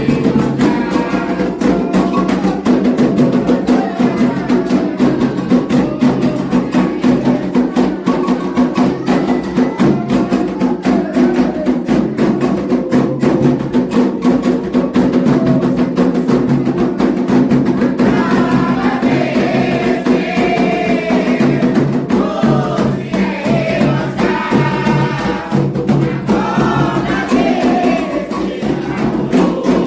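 Candomblé ritual music: atabaque hand drums and a struck agogô bell in a fast, steady rhythm, with voices singing over them. The singing comes forward clearly about two-thirds of the way in.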